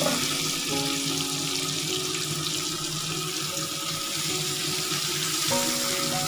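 Pumpkin-vine stalks and potato pieces frying in hot oil in a pan, a steady sizzling hiss.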